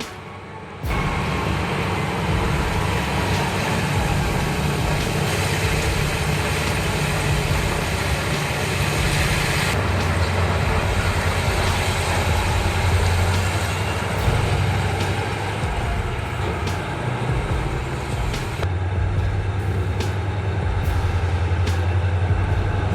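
Large mining dump truck's diesel engine running steadily under load, a heavy low rumble with hiss above it. It starts about a second in, and the upper hiss changes character about ten seconds in and again near nineteen seconds.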